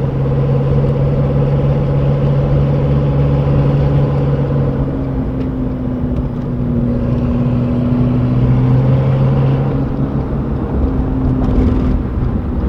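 Supercar engine cruising at a light, steady throttle, a low even drone that sags slightly in pitch around the middle and then picks up again, over tyre and road noise.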